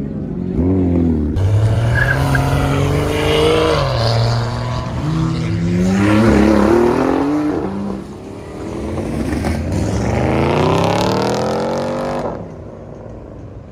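A car engine revving hard several times, its pitch climbing and dropping again and again, with a loud hiss over it that stops suddenly near the end.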